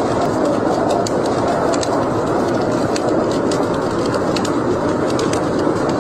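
Fire burning in a fireplace: a steady rushing roar with frequent sharp crackles and pops, several a second.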